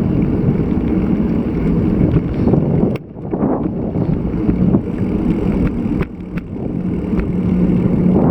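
Typhoon wind buffeting an action camera's microphone during a bicycle ride: a loud, rumbling rush that briefly drops about three seconds in, with a few small clicks.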